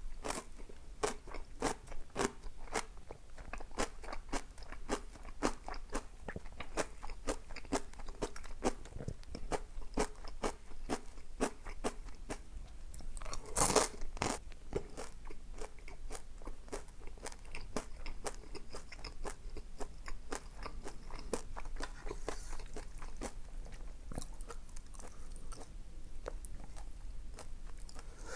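Close-up eating sounds: a person biting and chewing crunchy food, a rapid run of small crisp crunches and clicks, with one louder, longer noisy swell about halfway through.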